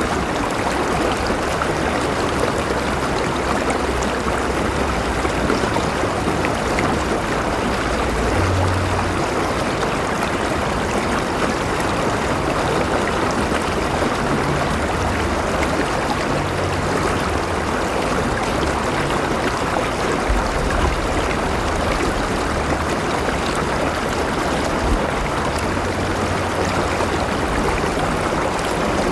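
River water flowing and babbling steadily over rocks, a dense, even rush with a low rumble beneath it.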